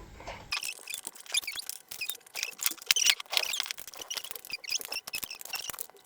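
Small plastic toy pieces being handled and fitted together: a run of light clicks and short, high squeaks of plastic rubbing on plastic.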